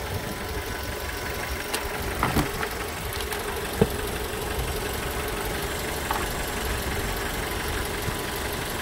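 2004 Mazda 3's four-cylinder DOHC 16-valve engine idling steadily, heard under the open hood. A few light clicks and taps come from a multimeter and its test leads being handled on the engine cover.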